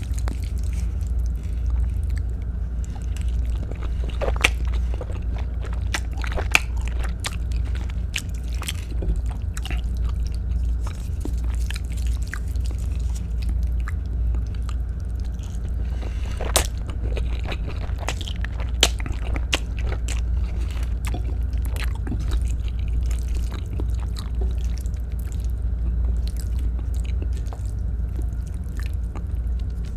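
A person chewing and biting Filipino-style spaghetti close to the microphone, with scattered sharp mouth and utensil clicks over a steady low hum.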